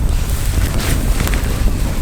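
Campfire burning, with wind buffeting the microphone as a steady low rumble. A brief swell of hiss comes about a second in, and there are only a few faint crackles.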